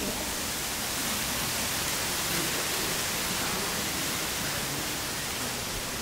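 A steady, even hiss of outdoor ambient noise with nothing standing out.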